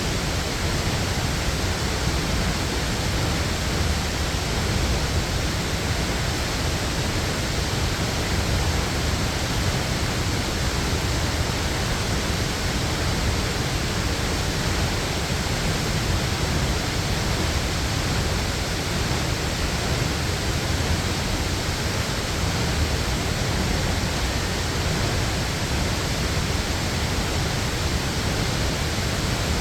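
Waterfall rushing steadily: an even, unbroken wash of falling water, heaviest in the low end.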